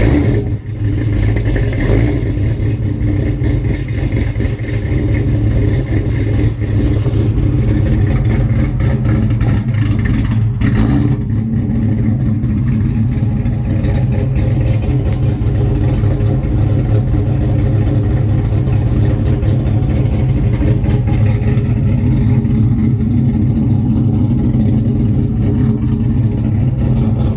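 Car engine just started and running steadily with its PCV hose disconnected, which leaves an open vacuum leak on the intake. A brief burst of noise cuts through about ten and a half seconds in.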